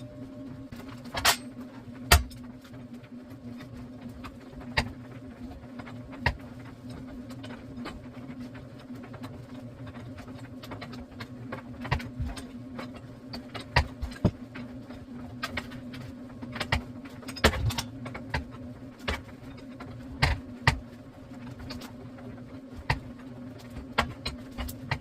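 A steady low buzzing hum with irregular sharp clicks and knocks over it.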